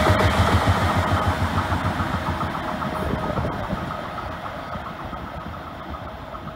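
An Intercity Notte passenger train led by E402B electric locomotives running away along the track. Its wheels rumble on the rails and a faint steady whine carries over them, all fading steadily as the rear locomotive recedes.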